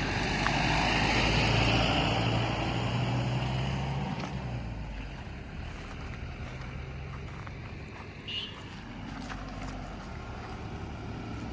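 Nissan Magnite compact SUV driving, its engine humming steadily over tyre and road noise. The sound is louder for the first four seconds or so, then eases off to a lower, even level.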